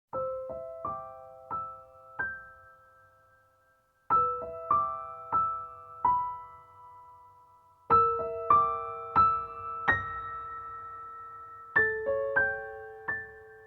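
Background music: a slow, gentle piano melody played in short phrases of a few notes, each note struck and left to ring and fade.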